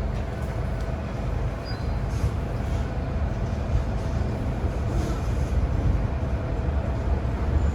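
MTR M-train electric multiple unit running between stations, heard from inside the car. A steady low rumble of wheels on track carries a faint steady whine and a few light clicks.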